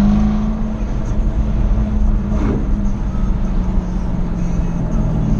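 Jaguar F-Type SVR's supercharged V8 reaches the top of a climb in pitch at the start, then eases off the throttle. It runs on as a low rumble with road noise, and begins to rise in pitch again near the end.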